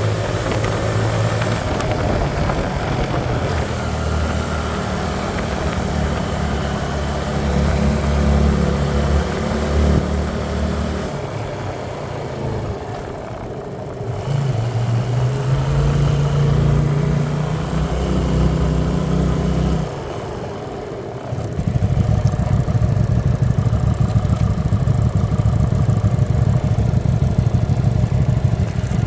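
Hyosung Aquila 125's small V-twin engine running while riding, holding steady speeds with its pitch shifting in steps; it eases off twice, briefly and more quietly, then picks up again.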